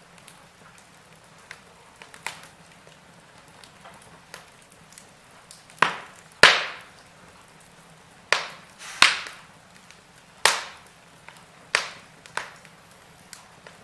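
Wood fire burning in a fireplace, crackling with sharp, irregular pops, the loudest few about halfway through, over a faint steady hiss.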